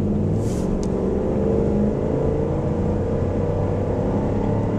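A 2007 Jeep Commander's 4.7-litre V8, heard from inside the cabin, pulling hard under a 6,000 lb trailer load up a grade, its revs climbing steadily as it accelerates.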